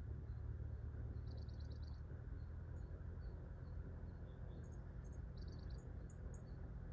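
Small wild birds chirping at a bird bath: scattered high single chirps, with a quick run of rapid repeated chirps about a second in and another past the middle, over a steady low outdoor rumble.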